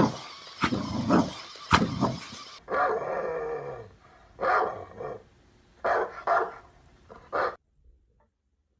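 A pet's short sharp barks and growls in a run of bursts, with one longer falling call in the middle, cutting off suddenly near the end.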